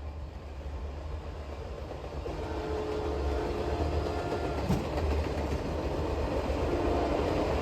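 Train rolling by, its rumble growing steadily louder, with a single sharp knock about five seconds in.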